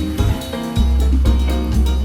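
Jazz with a drum kit keeping a steady beat, a deep bass line and pitched instruments on top.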